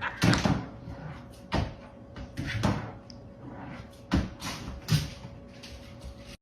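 A series of about five sharp knocks and thumps at uneven intervals, about a second apart, with quieter clattering between them.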